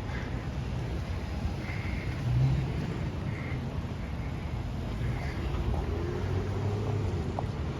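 Steady low rumble of a car engine running, with a slight swell about two and a half seconds in.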